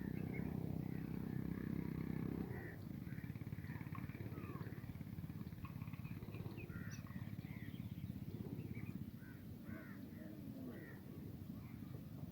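Many small birds chirping and calling over one another, over a low steady rumble that is louder for the first two and a half seconds, then drops.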